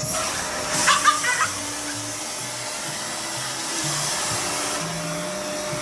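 Vacuum cleaner running steadily with a constant hum, under light background music. About a second in, a brief cluster of three short, higher-pitched sounds stands out above the motor.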